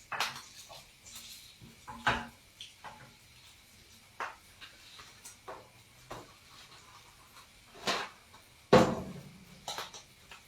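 Kitchen clatter: a string of separate knocks and clinks from dishes and utensils being handled, with a heavier knock about nine seconds in being the loudest.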